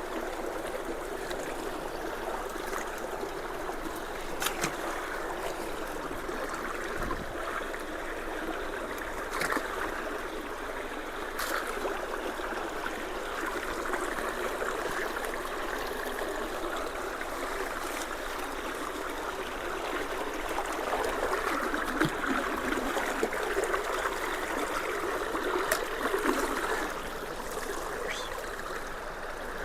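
Creek water running steadily at road culverts, with a few faint clicks scattered through it.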